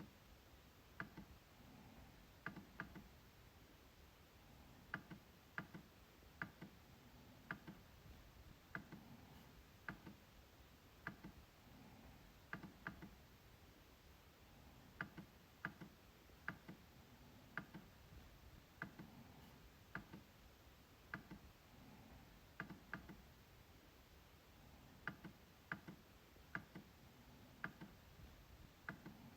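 MacBook trackpad clicking: short sharp clicks, singly and in quick pairs, at an uneven pace of about one to two a second.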